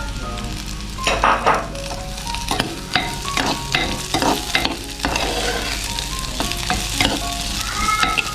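Chopped shallots, ginger and garlic sizzling in hot coconut oil in a pan, with a spatula scraping and stirring them in several short spells of strokes. The onions are being sautéed until soft.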